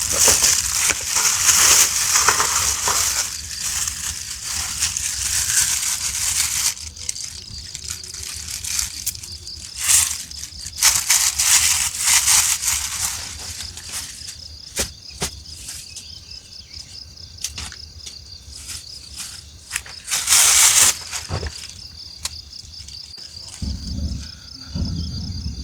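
Bursts of crunching and rustling, loudest for the first several seconds and again in short spells later. A steady, evenly pulsing high-pitched insect trill runs beneath from about a quarter of the way in.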